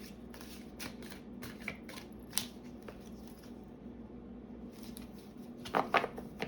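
A deck of oracle cards being shuffled and handled, heard as scattered light card flicks and rustles. A louder flurry of card snaps comes near the end.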